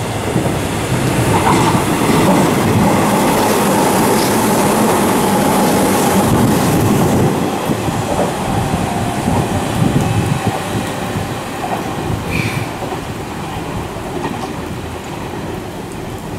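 Hanshin 8000-series electric train passing through the station at speed on rain-soaked track, with wheels clattering over the rail joints and a steady whine. It builds about a second in, stays loud for several seconds as the cars go by, then eases off.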